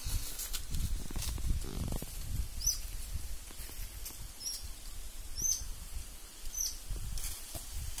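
A bird gives five short high chirps, about one a second, starting about two and a half seconds in. Before them, rustling and low thumps, like steps or handling on dry leaves.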